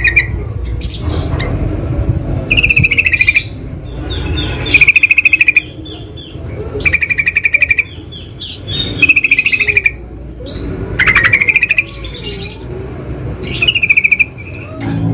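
Yellow-vented bulbuls calling: short, rapid chattering phrases, repeated every second or two.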